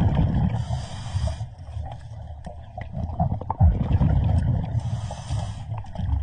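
Scuba diver breathing through a regulator underwater: two hissing inhalations about four seconds apart, with the low rumble of exhaled bubbles between them.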